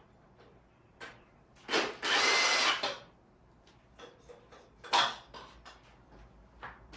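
A power tool runs for about a second, set among scattered knocks and clicks of tools and engine parts being handled.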